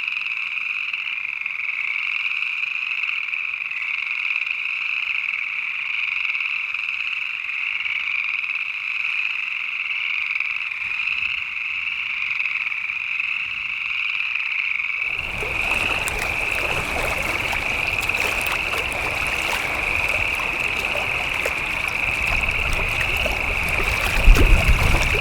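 Dense, steady chorus of frogs calling together. About two-thirds of the way in, a rushing noise covering all pitches joins it suddenly, and a louder burst comes near the end.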